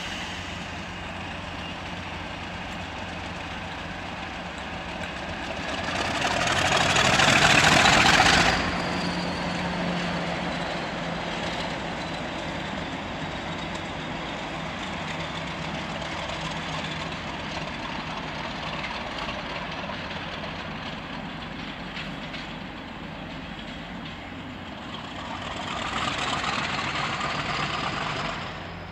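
Train at a station, its engine running steadily with a low hum. A loud rushing surge builds about six seconds in and cuts off sharply about two seconds later, and a smaller swell comes near the end.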